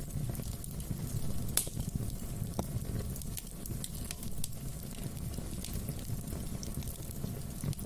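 Wood fire burning in a fireplace: a steady low rumble of flames with scattered sharp crackles and pops, one louder pop about a second and a half in.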